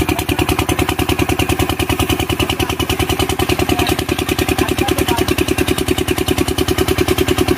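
Kirloskar single-cylinder diesel engine running steadily after repair, a fast, even beat of firing strokes with a clattering knock.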